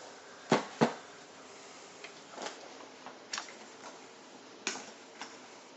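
Hard items being handled and set down: two sharp knocks about half a second apart near the start, then a few scattered lighter clicks.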